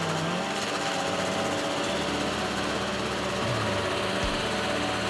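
Large industrial wood chipper running steadily: a constant engine drone with a steady hum and no break or change in load.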